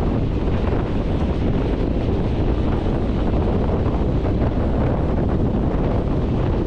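Wind rushing over the microphone at the open window of a moving passenger train, over the train's steady low rumble as it runs along the track.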